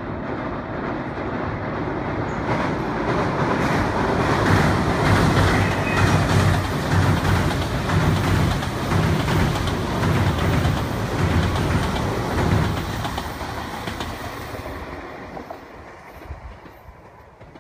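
A Meitetsu red-and-white rapid limited express electric train passing at speed, its wheels beating a rhythmic clatter over the rail joints. It builds over the first few seconds, is loudest through the middle, then fades away as the train recedes.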